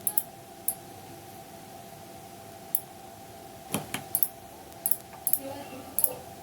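Scattered sharp clicks from computer mouse buttons and keys, about ten, irregularly spaced with a clustered run in the second half, over a steady faint hum.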